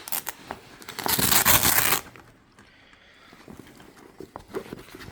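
Cordura backpack being handled: a few light rustles, then a loud ripping sound about a second long, then faint fabric rustling.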